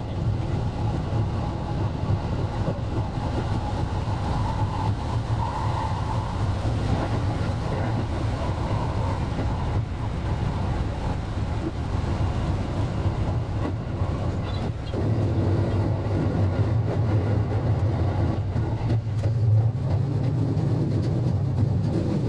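JR West 223 series electric train running along the track, a steady rumble and hum of the running gear and motors, sped up four times. It grows a little louder about two-thirds of the way through.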